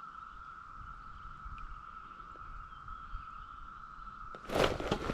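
A steady, high-pitched whine holding one pitch over faint outdoor background, broken about four and a half seconds in by a short, loud rush of noise.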